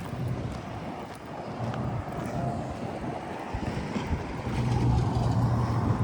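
Outdoor street sound: a low, uneven rumble of wind buffeting the microphone, mixed with traffic noise that grows somewhat louder in the second half.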